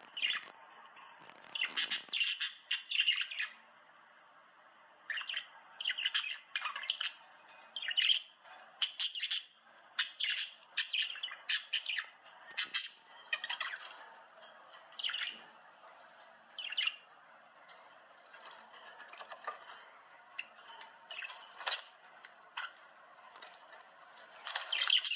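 A bird chirping and squawking in many short, irregular, high-pitched calls, in clusters with brief pauses between them.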